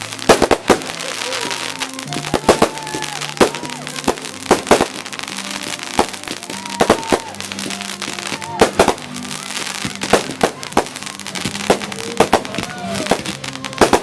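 Consumer fireworks going off in an irregular, rapid string of sharp bangs from bursting aerial shells, over music playing in the background.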